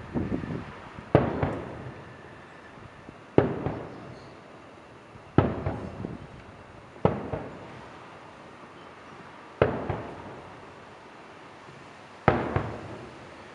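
Aerial firework shells bursting one after another: six sharp bangs about two seconds apart, each dying away over a second or so.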